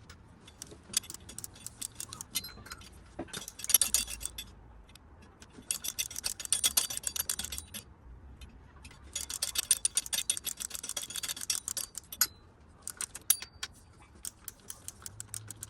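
Ratchet wrench clicking in five bursts of one to two seconds, with scattered metallic clicks between them, as the bolts holding an engine's intake manifold are undone.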